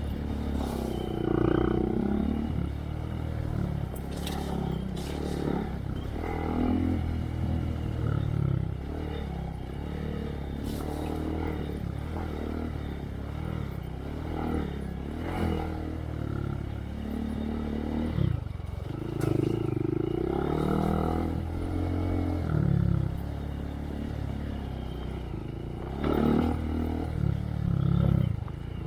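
2023 Honda Monkey's single-cylinder engine through a Yoshimura RS3 exhaust, revving up and easing off again and again while riding a trail. Occasional sharp knocks and clatter from the bike over rough ground.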